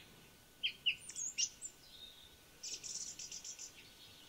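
Small birds chirping faintly: a few short high chirps about a second in, then a quick high trill of about eight notes near the three-second mark.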